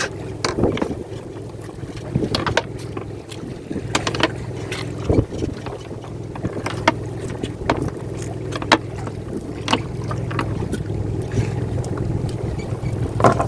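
Steady engine hum on a small fishing boat, with scattered sharp knocks and clatter of gear on the boat.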